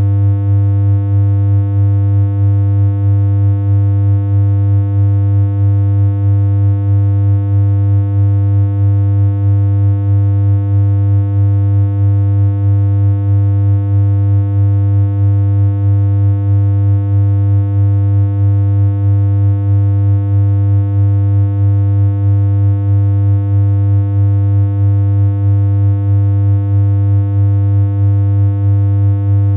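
Synthesized electronic hum: one low, steady tone held without any change in pitch or loudness.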